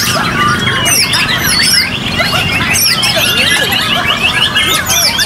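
Many white-rumped shamas (murai batu) singing at once: rapid, overlapping whistles and trills that sweep up and down, over a low murmur of people.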